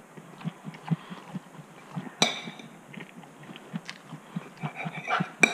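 Close-miked chewing: soft, low, rhythmic thumps of a mouthful being chewed. A fork clinks sharply on the plate about two seconds in, and again near the end.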